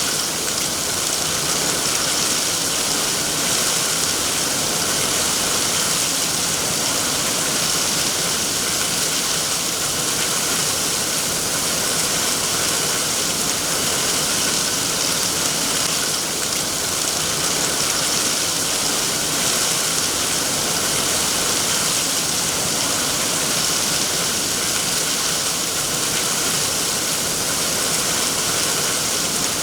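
Steady rainfall, an even hiss of rain with no distinct drops or pauses.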